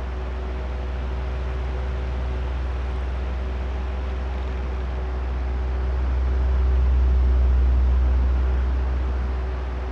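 Oscillating electric fan running: a steady drone of rushing air over a low motor hum with a faint steady whine above it. The sound swells louder about six seconds in and eases back near the end as the fan head turns back and forth.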